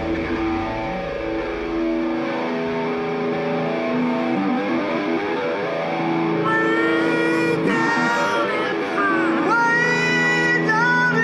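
Live rock band music: held chords, then a high lead line with bending, wavering pitch comes in about six seconds in.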